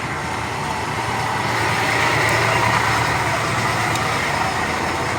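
A motor vehicle running steadily, swelling a little toward the middle and easing off again.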